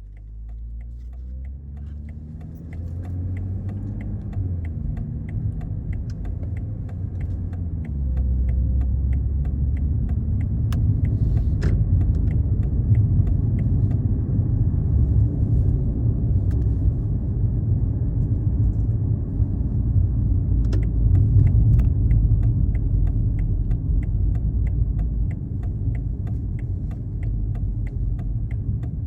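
BMW 540i's B58 3.0-litre turbocharged inline-six running through an ARP aftermarket exhaust as the car drives: a low rumble that rises in pitch over the first few seconds, gets louder about eight seconds in, then holds steady.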